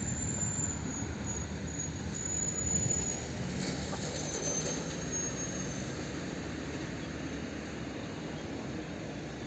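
A train running on rails with a steady low rumble, and a thin, high wheel squeal that wavers over roughly the first half and then fades.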